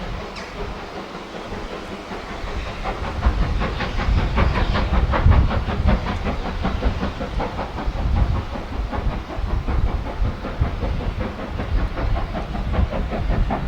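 Steam train running past with a low rumble and hiss, and a fast, even run of beats that starts about three seconds in and continues to the end.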